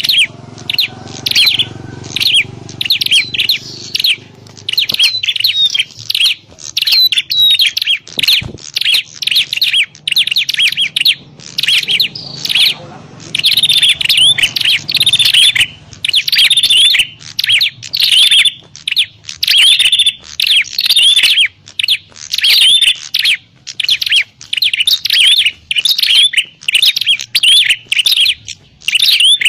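Prenjak klawu, a prinia, calling in a rapid, unbroken run of sharp high chirps, several a second. It is a lure call recording for attracting the bird.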